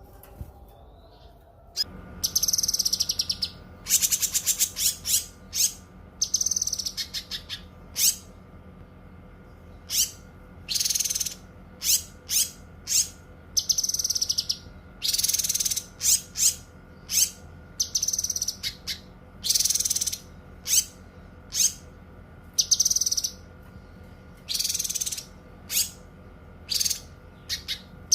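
Cucak kinoi songbird singing: short, sharp, high-pitched phrases and rapid trills repeated every second or so, over a steady low electrical-sounding hum that begins about two seconds in.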